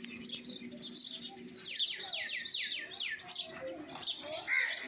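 Small birds chirping, with a quick run of about five falling chirps about two seconds in. A faint low hum runs under the first second.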